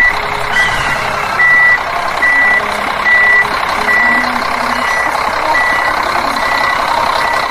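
Vehicle reversing alarm beeping evenly, about one high beep every 0.8 s, over a steady noise.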